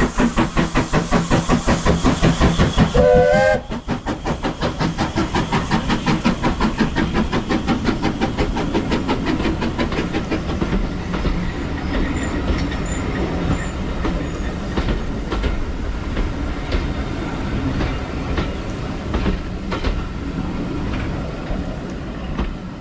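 Steam locomotive working a train, with rapid, even exhaust chuffs and a short steam-whistle blast about three seconds in. The chuffs then soften into the steady rumble and clatter of the carriages on the rails.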